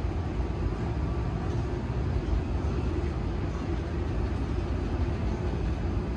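Steady low rumble of a Tokyo Metro 18000 series electric train running on the rails, heard from inside the passenger car.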